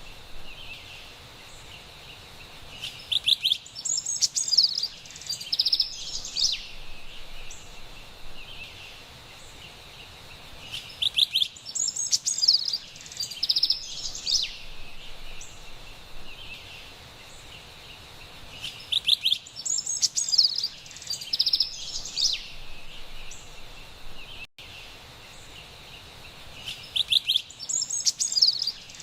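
Carolina wren singing rapid, rolling phrases in four bursts spaced about eight seconds apart, over a steady high background hiss.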